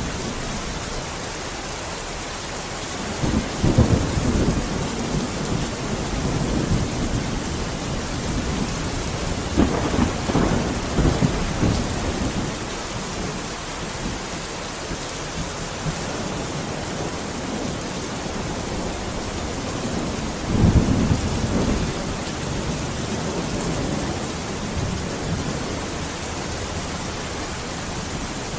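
Thunderstorm: steady rain hissing throughout, with three rolls of thunder rumbling up over it, about 3, 10 and 20 seconds in.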